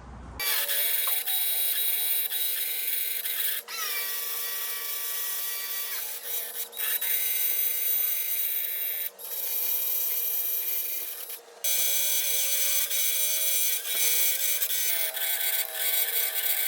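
Power tool whirring in several runs, high-pitched with many tones at once, starting and stopping a few times with the pitch sliding as it speeds up or spins down.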